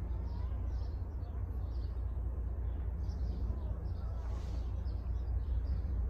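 Small birds chirping over and over above a steady low rumble, with a brief hiss about four and a half seconds in; no horn sounds.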